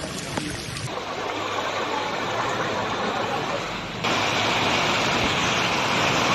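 Rushing floodwater: a steady wash of water noise that becomes louder about four seconds in.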